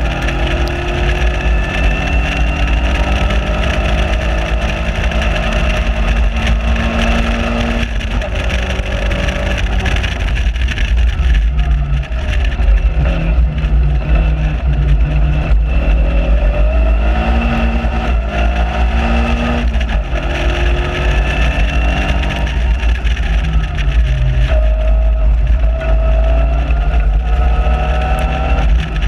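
Open-cockpit Seven-type sports car's engine on track, heard onboard: it revs up and falls back again and again through gear changes and lifts for corners. A heavy rumble of wind on the microphone runs underneath.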